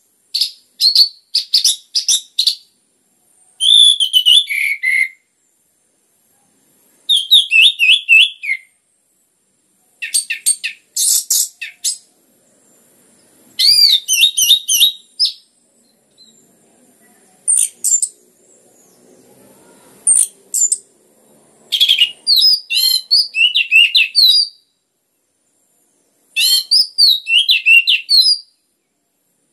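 Orange-headed thrush singing: about nine loud phrases of rapid, sweeping high whistled notes, each lasting one to two and a half seconds, with short pauses between them.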